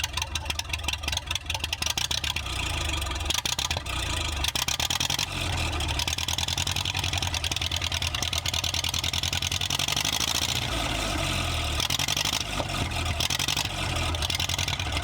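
Ferguson TED 20 tractor's four-cylinder engine running with no exhaust system fitted, giving a rapid, even firing patter.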